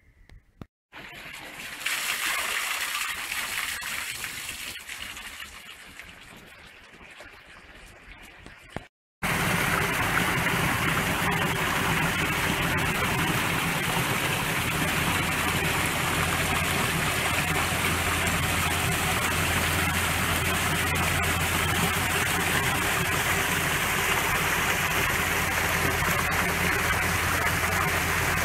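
Rushing water, as from a stream or waterfall. It comes in two stretches: a softer rush that fades away, then, after a cut about nine seconds in, a louder, steady rush.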